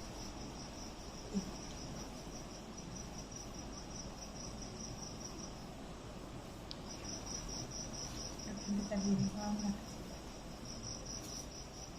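A cricket chirping in a steady, fast high-pitched trill, which breaks off for about a second midway and then carries on. Faint low voices murmur briefly about nine seconds in.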